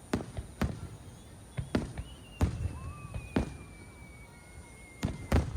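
Aerial fireworks shells bursting: about eight sharp, echoing bangs at irregular intervals, some in quick pairs. From about two seconds in, a long, thin whistle slowly falls in pitch and stops shortly before the last bangs.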